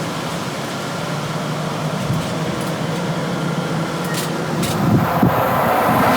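Train approaching: a steady mechanical hum and rushing noise that slowly grows louder, with a couple of faint clicks about two-thirds of the way through.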